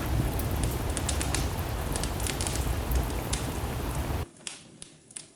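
Steady rain with a crackling wood fire: a dense hiss and low rumble with many sharp crackles. About four seconds in, the hiss and rumble cut off suddenly, leaving only scattered, quieter crackles and ticks.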